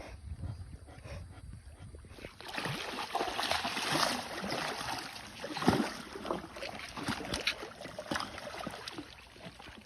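Water splashing and sloshing in a pool, building up about two seconds in with irregular splashes and one louder splash around the middle.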